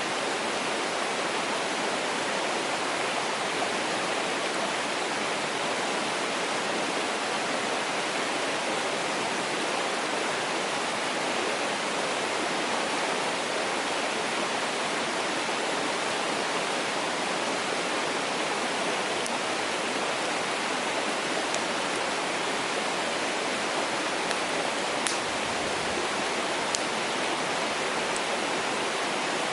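Mountain stream rushing in a steady, even hiss, with a few faint pops from a crackling wood fire in the second half.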